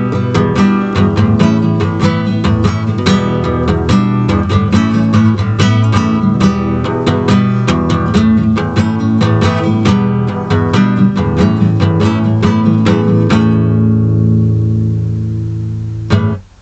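Acoustic guitar strummed in quick, steady strokes; about three-quarters of the way through the strumming stops and the last chord rings on, then one sharp stroke and the sound cuts off suddenly.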